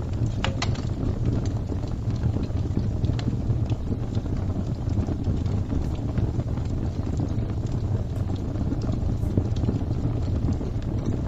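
Crackling fire: a steady low rumble of the flames with irregular sharp pops and snaps, a sharper double crack about half a second in.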